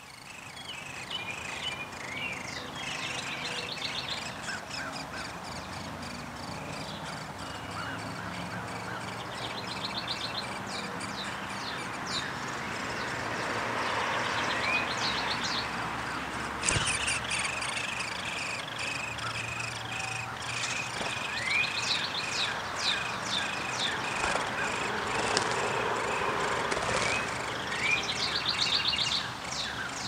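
Birds chirping and calling, with a short rapid trill that comes back every several seconds. There is a sharp click about 17 seconds in.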